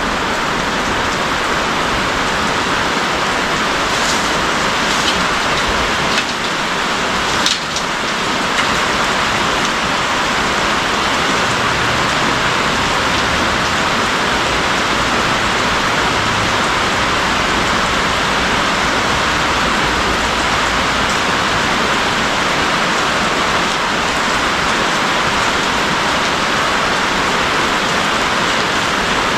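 Steady heavy rain falling, a dense even hiss with a few faint clicks about four and seven seconds in.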